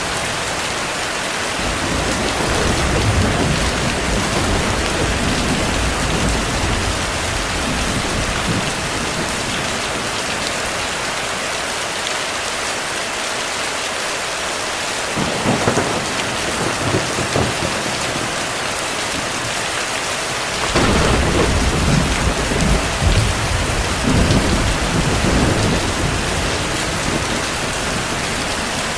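Heavy steady rain with thunder: a low rumble of thunder in the first few seconds, a brief sharper rumble about halfway through, and a louder roll of thunder that starts suddenly about two-thirds of the way in and lasts several seconds.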